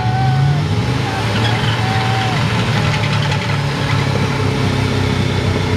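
Mud truck's engine running steadily at an even, low pitch, neither revving up nor dying down.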